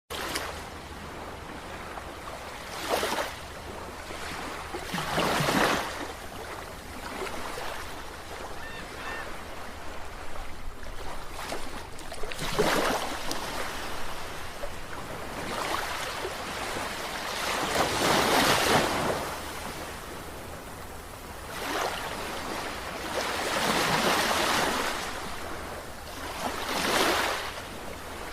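Sea waves breaking and washing in over a steady hiss of surf. Each wave swells louder and fades again every few seconds, at an uneven pace.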